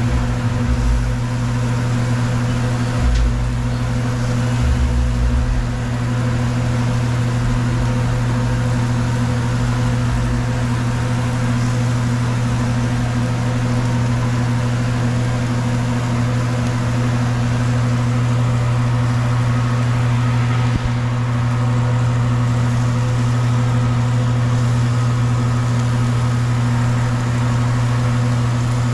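Steady low mechanical hum, even in pitch throughout, with a few low bumps in the first several seconds.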